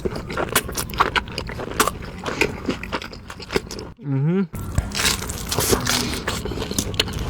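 Close-miked biting and chewing of pizza, with many small crunches and clicks of the crust and wet mouth sounds. About four seconds in there is a brief hummed vocal sound.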